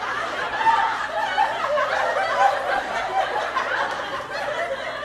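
A group of people laughing and chuckling, with a low steady murmur.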